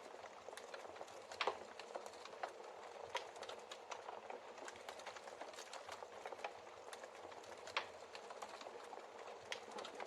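Wood fire crackling, with scattered sharp pops over a steady hiss of rain. The loudest pops come about a second and a half in and near eight seconds.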